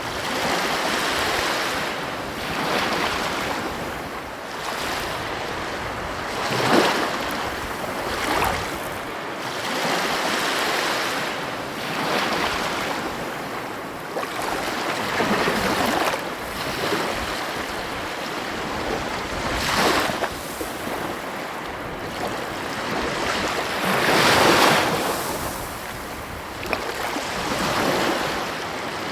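Ocean surf: waves breaking and washing ashore in a continuous hiss, swelling every few seconds, with the biggest break a little before the end.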